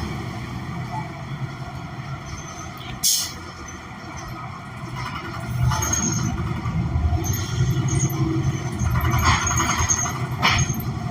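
Cabin of a New Flyer XN40 city bus with a Cummins Westport ISL G natural-gas engine: low engine rumble that picks up about halfway through. Short sharp hisses of compressed air from the air brake system come about three seconds in and again near the end.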